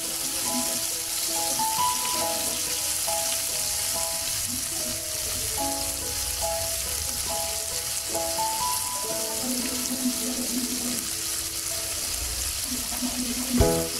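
Squid frying in sauce in a nonstick pan, with a steady sizzle throughout. A gentle melody of background music plays over it, and there is a sharp knock near the end.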